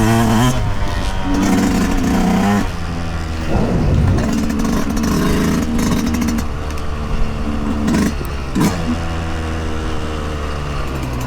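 Yamaha YZ125 two-stroke single-cylinder dirt bike engine revving up and down as it is ridden, pitch rising and falling through the gears and throttle changes. A few sharp knocks a few seconds in and again about two-thirds through.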